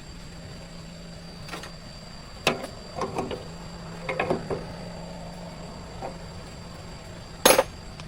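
Clanks and clicks of metal parts and tools being handled, a few at a time over a steady low hum, with one sharp, loud knock near the end.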